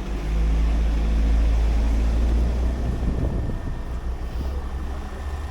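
A heavy vehicle's engine running close by, a deep rumble that swells up at the start and eases off after about three seconds.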